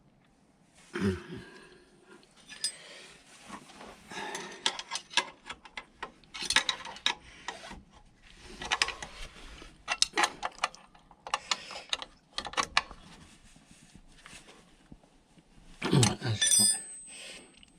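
Ratchet spanner clicking in short runs as the exhaust mounting nuts and bolts are run up, with clinks of metal tools and parts. A louder metallic clatter about sixteen seconds in rings briefly.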